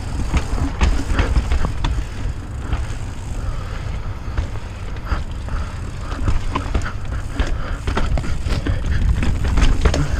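Mountain bike riding fast down a rocky dirt trail: tyres rolling over dirt and stones, with frequent clicks, knocks and rattles from the bike, over a steady low rumble of wind on the microphone.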